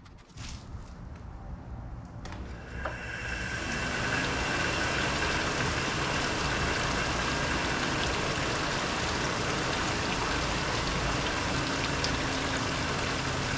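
Honeywell evaporative (swamp) cooler switched on for a test run after its fan blades were riveted back together: the fan spins up over about a second and a half to a steady rushing run with a faint whine, and water trickles through the pads.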